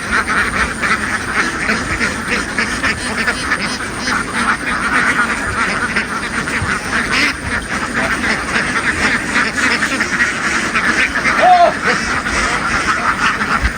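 A large flock of domestic ducks quacking continuously, many birds calling at once in a dense, steady chatter.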